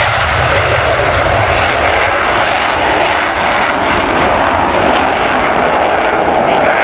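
Airplane engine noise from an aircraft in flight, loud and steady.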